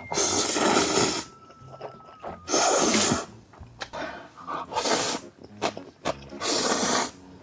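Noodles being slurped: four long slurps, each lasting up to about a second, with small mouth clicks between them.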